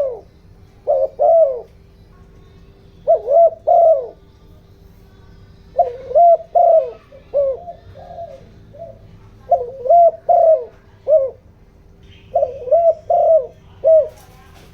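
Spotted dove cooing in short phrases of two to five coos, a new phrase every two to three seconds, with a faint steady hum underneath. This is the fast, insistent 'giọng đồng' cooing used to rouse wild doves and decoy birds.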